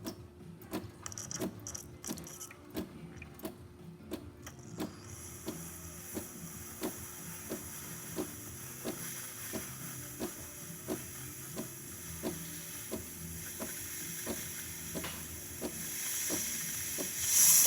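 DeLonghi Magnifica espresso machine in steam mode: its pump pulses in steady clicks about one and a half times a second over a low hum. About five seconds in, steam starts hissing from the wand, and it grows much louder near the end as the steam builds to full strength.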